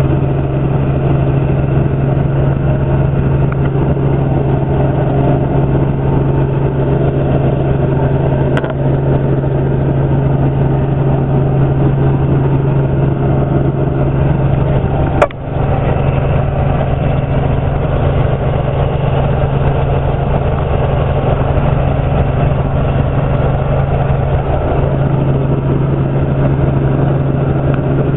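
Helicopter running, a loud steady drone of engine and rotor with a constant low hum, heard from the cabin in flight. A sharp click with a brief dip in level comes just past halfway.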